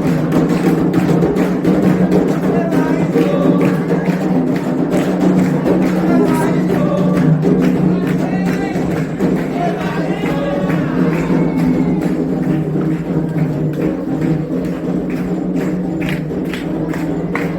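Candomblé ritual music: percussion with group singing, the strikes growing denser near the end.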